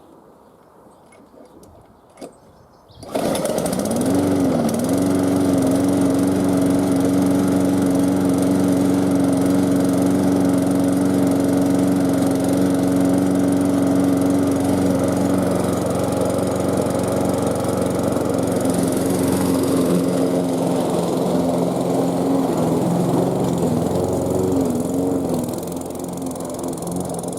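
Briggs & Stratton petrol lawn mower engine pull-started, catching suddenly about three seconds in. It then runs steadily, its speed wobbling briefly as it settles, and runs a little lower and quieter near the end.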